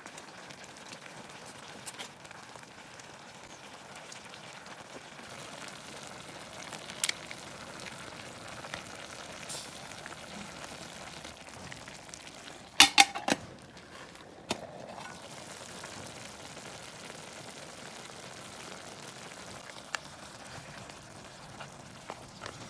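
Ramen and vegetables simmering in an aluminium mess tin over a small wood fire: a steady sizzling, bubbling hiss. Scattered sharp clicks cut through it, with a loud cluster of clicks a little past halfway.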